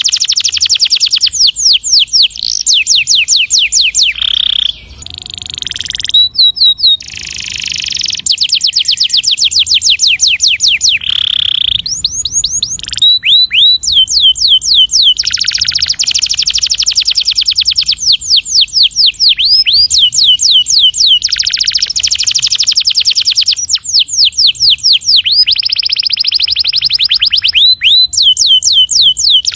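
Domestic canary singing long rolling trills: fast runs of rapidly repeated, high sweeping notes, with short breaks between phrases.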